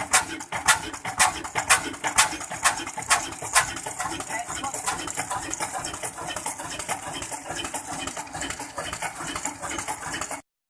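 Old engine-driven toka (chaff-cutter) machine running with a rhythmic clatter. It gives sharp strokes about two a second at first, then a denser, faster clatter from about four seconds in. The sound cuts off abruptly just before the end.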